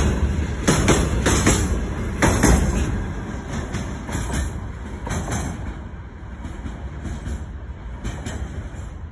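Loaded freight train's open gondola wagons rolling past, wheels knocking over the rail joints in a clickety-clack. The knocks are loud for the first few seconds and then fade as the last wagon passes and the train rolls away.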